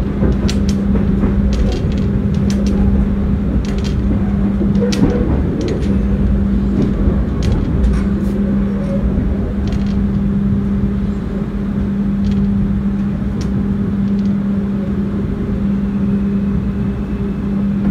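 Passenger train running, heard from inside the carriage: a steady rumble with a constant hum, and a run of sharp wheel clicks over the track in the first five seconds or so that thin out later.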